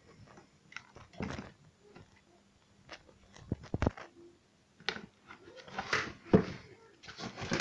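Packaging being handled and opened: irregular crinkling, rustling and sharp clicks, in bunches with short quiet gaps between.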